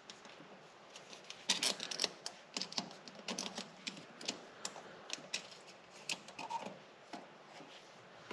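Light, irregular metallic clicks and taps in small clusters: a magnet being poked and scraped around inside a tractor axle hub's drain-plug hole to check for metal particles.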